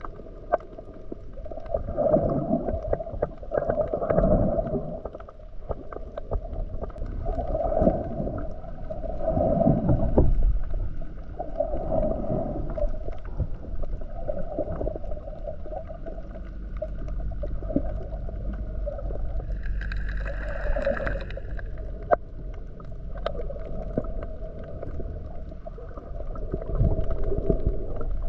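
Muffled sea water sloshing and gurgling around a camera held underwater, swelling about every two seconds. A low steady drone joins in near the middle.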